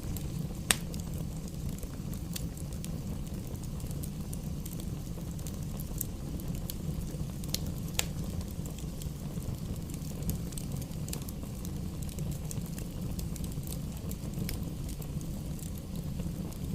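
Campfire burning: a steady low rumble of flames with scattered sharp crackles and pops, two louder pops about a second in and about halfway through.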